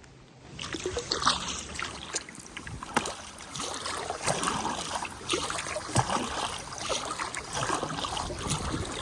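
Water splashing and dripping around a kayak being paddled on a river, with many irregular splashes. It starts up about half a second in, after a brief quiet moment.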